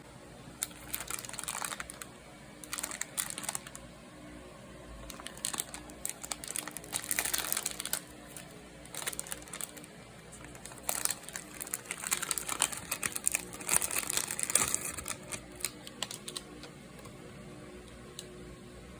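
Plastic food packaging being handled: irregular bursts of crinkling and clicking, in clusters a second or two long, that stop a few seconds before the end.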